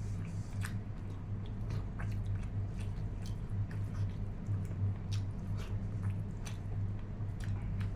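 Close-up chewing and mouth sounds while eating, with scattered soft smacks and clicks. A steady low hum runs underneath.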